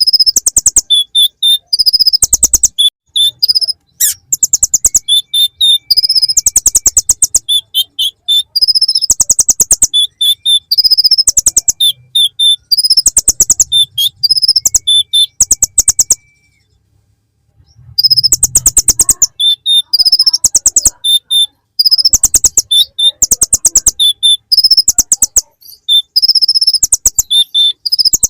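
Konin (kolibri ninja, a small sunbird) singing in loud bursts of very rapid, high trills, its song packed with imitations of the ciblek (bar-winged prinia). There is one short pause about two-thirds of the way through.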